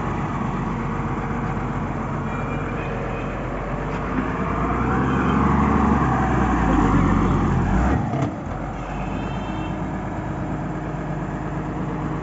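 JCB 3DX backhoe loader's diesel engine running, working harder and louder through the middle, then dropping back suddenly about eight seconds in.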